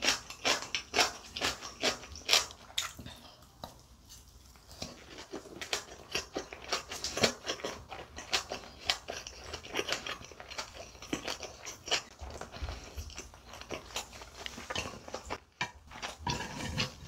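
Close-miked chewing of a mouthful of food, a run of quick, crisp clicking bites that eases off briefly a few seconds in and then carries on.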